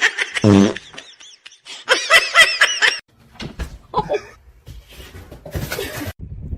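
People laughing in short bursts, with a higher-pitched run of laughter about two seconds in.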